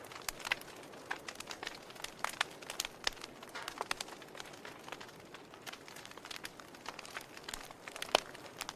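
Wood fire of burning logs crackling in a fireplace: a soft hiss of flames with irregular sharp pops and snaps, several a second, and one louder pop near the end.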